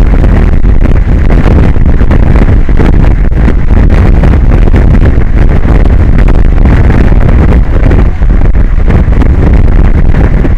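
Strong wind buffeting the microphone: a loud, steady low rumble with hiss above it, without a break.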